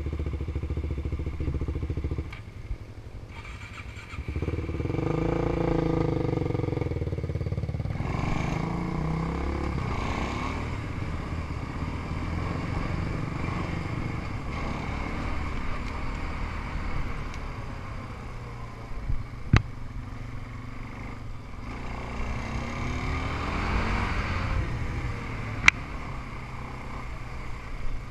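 Small off-road engines of ATVs and dirt bikes running: steady at first, dropping away about two seconds in, then revving up again and changing pitch as the machines ride around. Two sharp clicks come later on.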